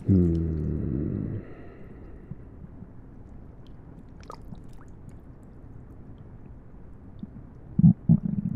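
A deep stomach growl about a second and a half long at the start, falling in pitch and then holding, followed by a steady hiss of rain ambience and a few loud low gurgles near the end.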